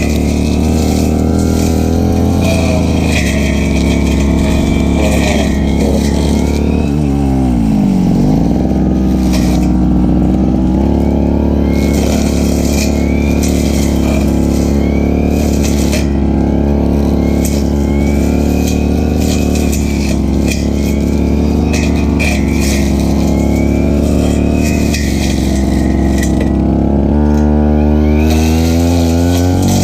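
Stihl FR3001 brush cutter's two-stroke engine running at high throttle. Its pitch drops briefly about a quarter of the way in and climbs back, and it revs up again near the end.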